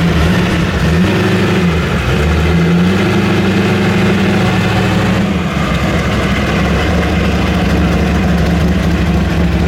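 American V8 muscle car engine running at low revs, its pitch dipping and rising slightly a second or two in, then running steadily.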